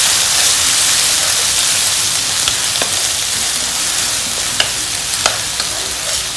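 Ground onion and dried-chilli paste sizzling in hot coconut oil in a nonstick pan as a wooden spatula stirs it, with a steady hiss that eases a little. The spatula taps and scrapes against the pan a few times in the second half.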